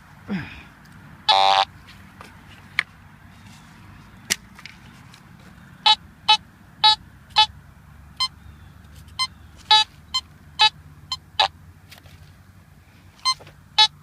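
Metal detector beeping over a target: one longer tone about a second and a half in, then runs of short beeps about half a second apart, read as a nickel-to-dime range signal. Sharp clicks and knocks come between the beeps.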